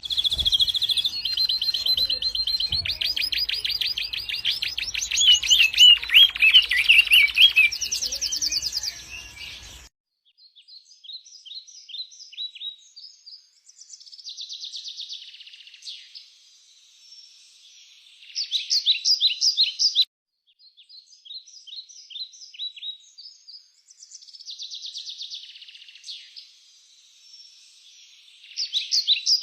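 Songbirds singing: a dense run of trills and chirps for about the first ten seconds, then clear, repeated phrases of high chirps with short gaps between them.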